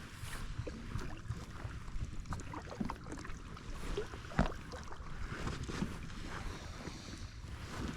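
Kayak being paddled: paddle strokes and water splashing against the hull, with irregular light knocks, the loudest about halfway through, over a steady low rumble.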